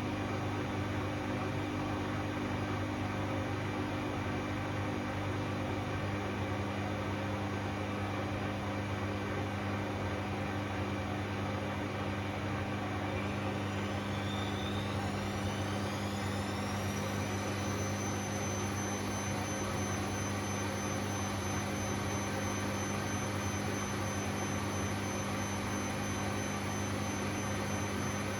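Bosch Classixx 6 washing machine in its 600 rpm intermediate spin: the drum and motor run with a steady hum, and about halfway through a whine rises in pitch as the drum speeds up, then holds at a steady pitch.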